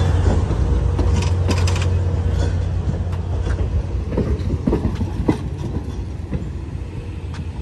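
Passenger railcars rolling past close by: a low rumble with steel wheels clacking over the rail joints. The rumble fades as the last car moves away.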